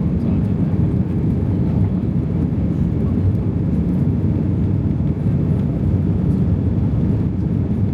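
Steady low rumble inside the cabin of a British Airways Airbus A320, an even noise without distinct tones or knocks.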